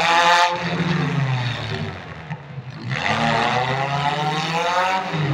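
Demolition derby compact cars' engines revving hard, pitch climbing and falling. The revving eases off about two seconds in and surges again about a second later.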